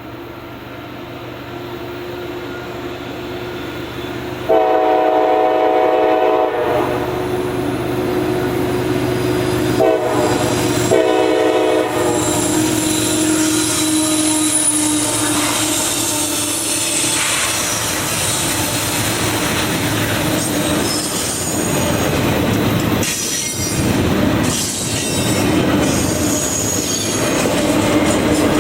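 A train drawing closer sounds its locomotive horn: one long blast about four seconds in, then two shorter blasts around ten and eleven seconds. It then passes close by with its wheels squealing high on the rails and clacking over the joints.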